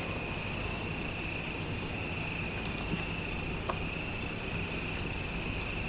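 Crickets and other insects singing: a steady high trill with a higher chirp above it pulsing about four times a second.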